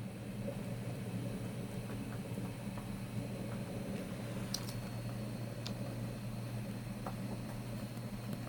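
Rain on the roof of a light-truck camper, heard from inside as a steady low drumming hiss, with a few light ticks about halfway through and again later.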